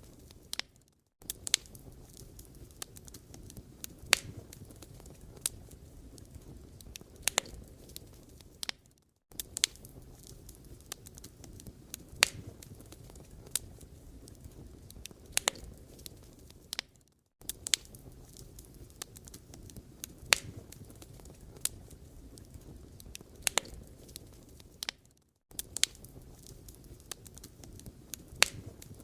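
Wood fire crackling: irregular sharp pops and snaps over a low, steady rustle. The sound drops out briefly about every eight seconds.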